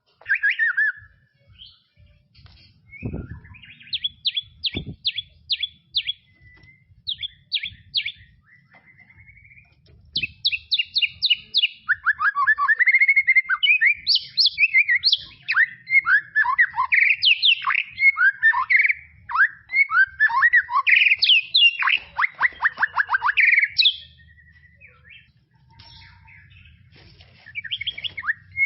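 White-rumped shama (murai batu) singing a long, varied song: quick series of repeated whistled notes at first, then from about ten seconds in a rapid, unbroken run of rich warbled phrases, thinning out again near the end. Two brief low thumps sound a few seconds in.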